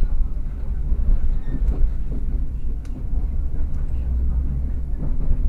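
Passenger train running, heard from inside the carriage: a steady low rumble with a few sharp ticks over it.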